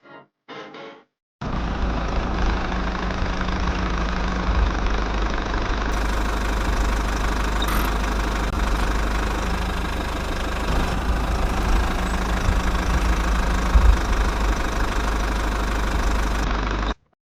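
Mini diesel engine of a DIY water pump running steadily with a deep rumble, starting suddenly about a second and a half in and cutting off abruptly near the end.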